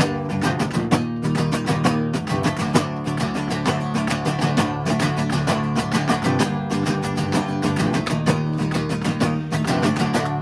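Instrumental section of a song: guitar playing fast, densely repeated notes over a steady pulse, with no singing.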